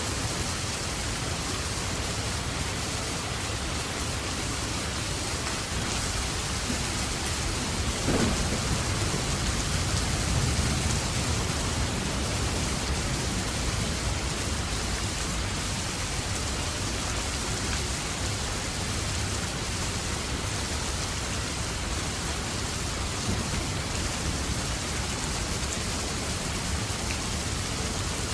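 Steady rain falling, with a low roll of thunder about eight seconds in that swells and fades over a few seconds.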